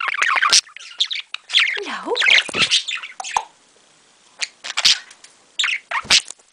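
Budgerigar chattering and chirping in rapid, busy bursts, breaking off about halfway through, then a few sharp clicks and short chirps near the end.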